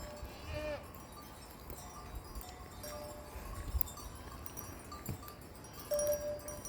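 Bells on grazing livestock ringing and clinking in short, scattered notes, with a brief animal call about half a second in.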